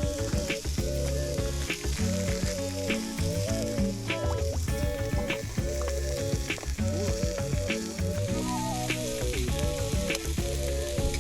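Fish sausage frying in mayonnaise in a pan, a steady sizzle with frequent clicks and scrapes of a utensil stirring it. A background music melody plays over it.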